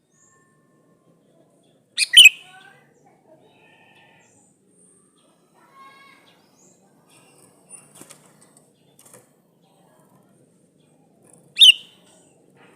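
A sooty-headed bulbul (kutilang) calling: two loud, short, sharp calls about ten seconds apart, with soft short chirps between them.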